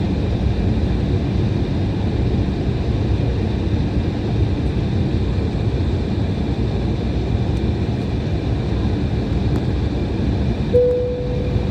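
Steady cabin noise inside an Embraer E175 airliner, a constant low rumble from its two turbofan engines with faint steady whines above it. A short single tone sounds near the end.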